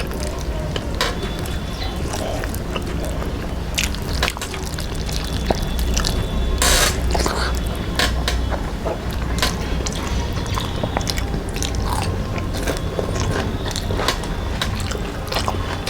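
Close-up eating sounds: chewing, with many small wet clicks and smacks of the mouth, and one longer rustling crackle a little under halfway through. A steady low hum runs underneath.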